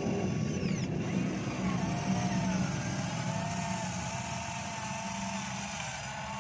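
Electric motors and hydraulic pump of a remote-control long-reach excavator whining under a low hum, the pitch wavering up and down as the arm digs.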